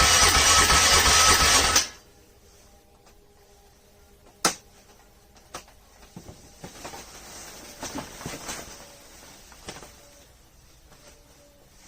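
ATV engine running, then cut off abruptly about two seconds in. A sharp click follows a few seconds later, then scattered small clicks and rattles.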